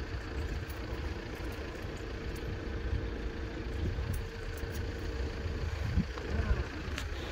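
Distant diesel multiple-unit train running with a low, steady rumble and a faint steady hum, with wind noise; a single sharp click near the end.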